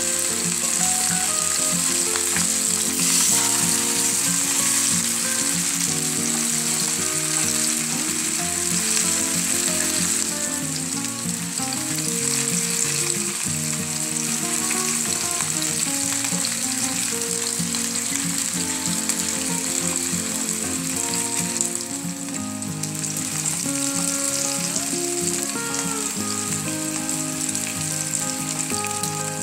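Masala-coated fish shallow-frying in hot coconut oil in a nonstick pan, sizzling steadily, with background music underneath.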